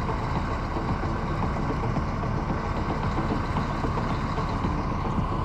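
Steady wind rumble on the microphone of a moving bicycle, with road noise from the tyres.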